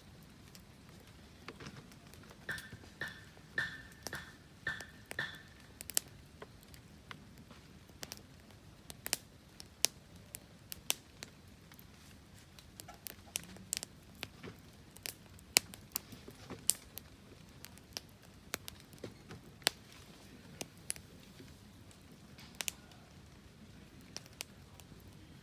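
Wood fire crackling: sharp, irregular pops and snaps, some loud, with a short run of about six quick high chirps a few seconds in.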